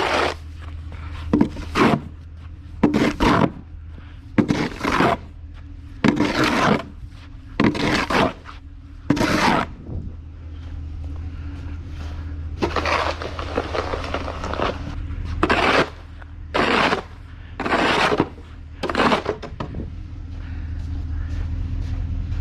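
Snow shovel scraping along a paved walkway in repeated short strokes, about one a second, with one longer push near the middle. A steady low hum runs underneath.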